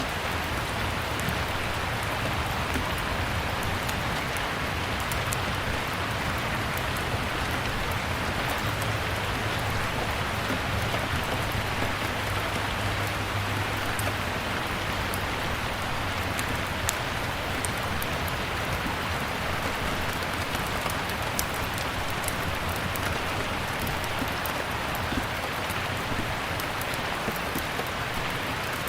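Steady rain falling, mixed with scattered sharp crackles of a wood fire burning in a fireplace, over a low rumble.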